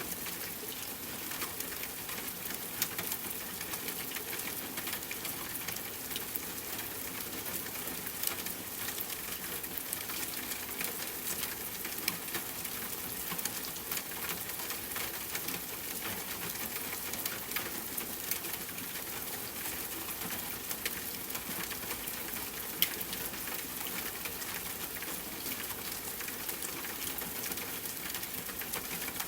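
Steady hiss of rain falling, mixed with scattered pops and crackles of a burning campfire, with one louder pop about 23 seconds in.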